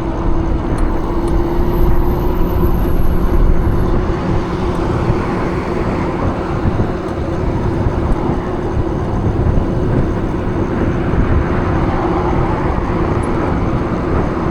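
Wind buffeting the microphone and road noise while riding an e-bike, with a steady hum throughout.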